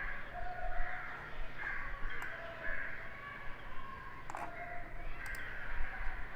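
Birds calling over and over in the background, with a few sharp clicks about two, four and five seconds in.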